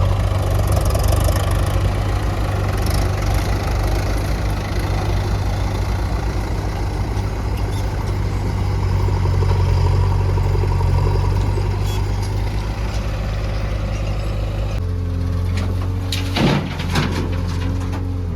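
Heavy diesel machine engine running steadily. About fifteen seconds in it settles to a smoother, steadier tone, and a couple of sharp knocks follow shortly after.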